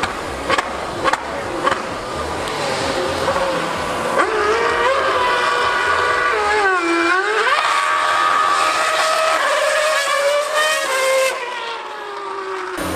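A high-revving racing engine is heard from about four seconds in, its pitch rising. About seven seconds in the pitch dips sharply and comes back up, then it holds high before falling away and cutting off suddenly near the end. A few sharp clicks come before it.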